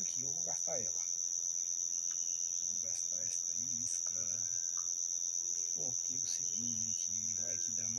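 A steady, high-pitched chorus of night insects such as crickets, calling without a break. Fainter low, wavering sounds come and go beneath it.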